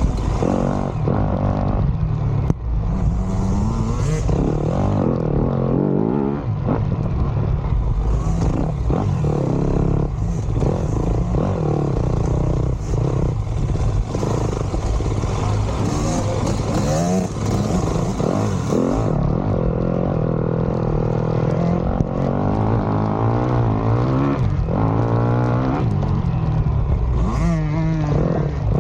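Dirt bike engine being ridden hard, revving up and down again and again through the throttle and gears, with clatter and knocks mixed in.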